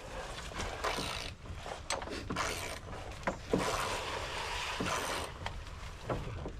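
Scattered knocks, clicks and scraping as lumber and tools are handled during deck tear-out work, over a steady low rumble.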